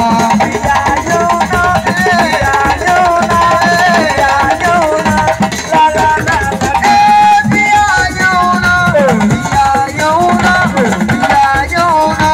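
Live assiko band music: drums and shakers keep a dense, steady rhythm under a melody line that slides and bends between notes.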